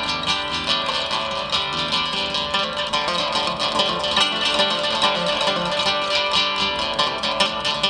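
Instrumental music on a plucked string instrument, with quick notes played in a steady stream.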